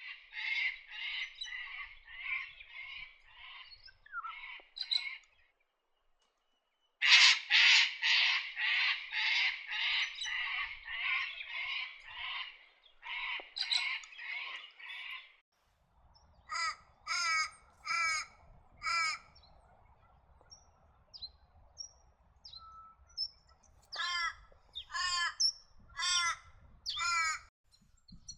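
Australian hobby calling: long runs of rapid, harsh, repeated notes, the longest lasting about eight seconds, then from about halfway through a group of four and later a group of five spaced, sharper notes.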